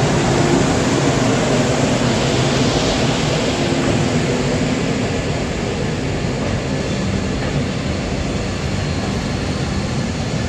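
Vande Bharat Express electric train running past close by on the next track: a steady rumble of wheels on rail.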